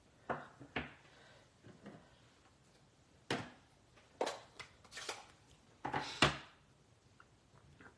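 About seven short knocks and taps of craft tools and card being picked up and set down on a work table, the loudest near the end.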